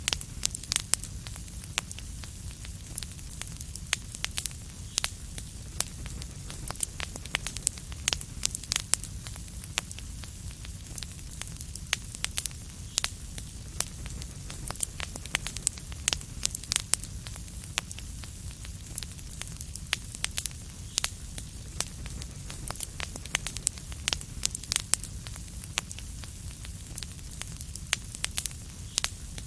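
Wood fire crackling, with irregular sharp pops and snaps several times a second over a low steady rumble of the flames.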